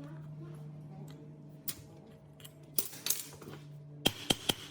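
Small metal parts clinking and clattering, with a burst of handling about three seconds in and four sharp metallic clicks near the end, over a steady low hum.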